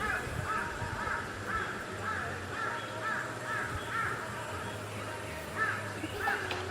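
A bird calling outdoors, a rapid series of short, arched, repeated notes about two a second, with a brief pause partway through before a few more.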